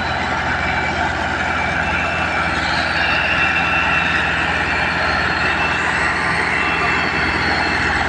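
Tractor engine running steadily and loudly, with a constant low throb.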